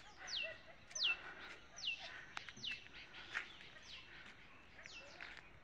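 A bird calling over and over with short whistled notes that each slide steeply down in pitch. There are about seven of them, a little under a second apart, with faint chirps between.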